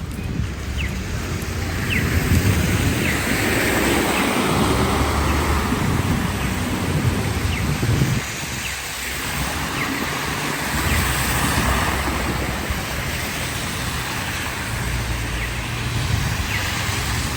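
City street traffic going by, a steady rush of noise with a low rumble that eases briefly about halfway through.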